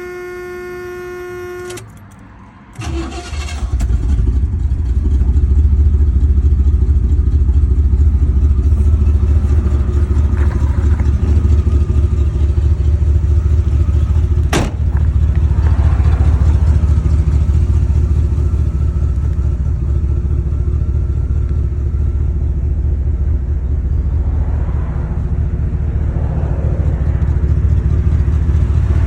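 A steady warning tone sounds for about two seconds. Then the 1973 Buick Centurion's V8 cranks briefly, catches on a cold start and settles into a steady idle. There is a single sharp click about halfway through.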